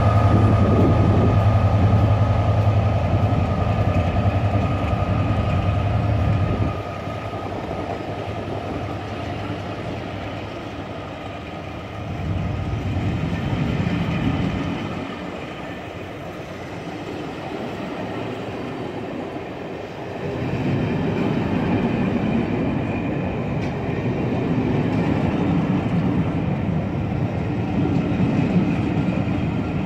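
Class 67 diesel locomotive's EMD two-stroke V12 pulling away, its low engine hum and steady whine dropping off about seven seconds in. Then the hauled passenger coaches roll past with a rumble of wheels on rail that swells and fades twice.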